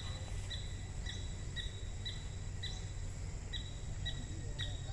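Short high chirps repeating evenly about twice a second, over a steady low rumble of outdoor background noise.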